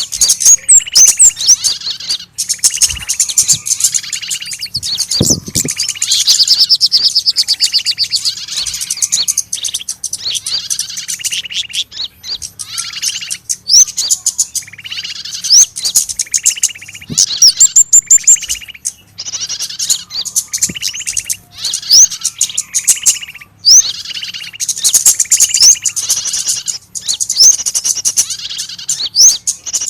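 Lure recording of small birds' distress calls, the 'trapped bird' sound used to draw small birds in. It is loud, with dense bursts of high, rapid chirps and sharp squeaks repeating over and over.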